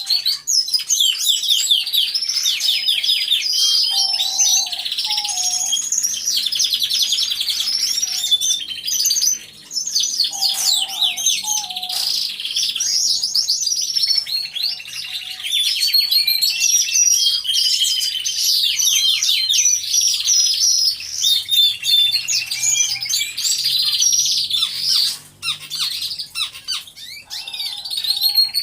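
Several domestic canaries singing at once in an aviary: overlapping rapid trills and chirps that run almost without pause, with brief lulls about a third of the way in and again near the end.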